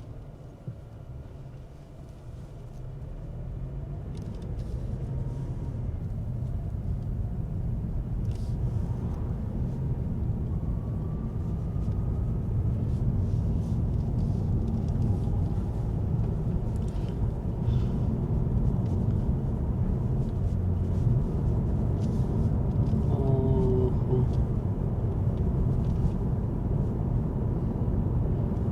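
Car driving on the road, heard from inside the cabin: a steady low road and engine rumble that grows louder over the first dozen seconds, then holds steady.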